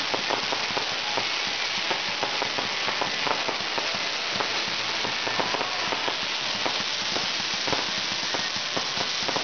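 Fireworks crackling: a dense, continuous rattle of many small rapid pops with no single big bang standing out.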